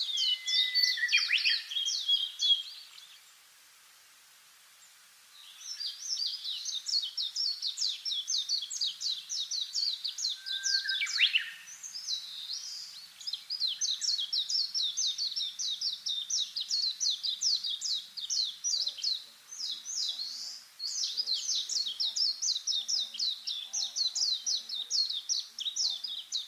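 Birds calling outdoors: long, fast runs of high chirps, about four or five a second, broken by a short pause near the start, with an occasional downward-sliding note.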